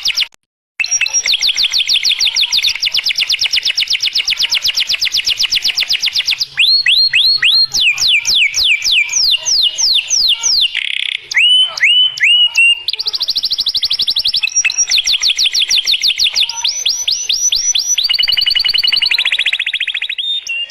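Domestic canary singing: fast trills of many repeated notes, then a run of falling sweeps and short rising notes, then fast trills again, with a brief break just after the start. It is the kind of lively, sustained canary song that is played to get other canaries singing.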